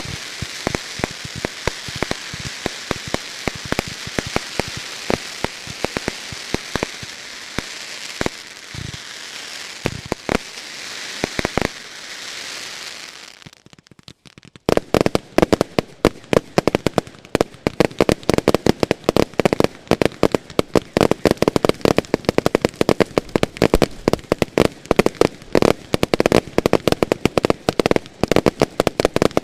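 Category F2 firework batteries going off in a finale. A dense crackling hiss with scattered pops runs for the first half. After a short lull about 14 seconds in, a rapid barrage of sharp bangs follows, several per second.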